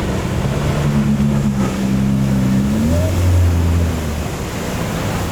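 A boat engine running and changing pitch, dropping to a lower, stronger note about three seconds in, over the steady wash of breaking surf and wind on the microphone.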